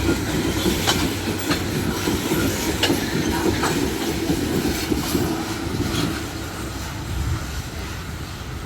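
Loaded freight wagons rolling past: a steady rumble of steel wheels on rail with irregular clacks as the wheels cross rail joints, fading slightly near the end.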